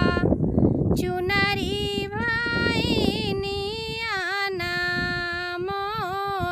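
A woman singing a vivah geet (North Indian wedding folk song) solo, with no instruments heard, drawing out long, ornamented notes. A rough noise sits under her voice for the first few seconds.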